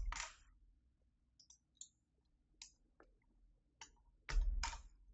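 Faint plastic clicks of keycaps being worked on a Keychron V6 Max mechanical keyboard, a few scattered ticks, then a louder thud with a rustle about four seconds in.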